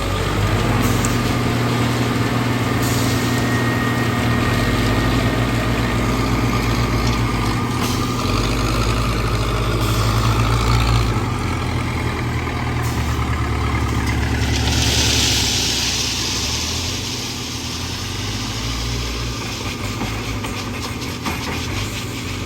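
Diesel engine of a backhoe loader running steadily under work, with a loud hiss of released air lasting about two seconds past the middle.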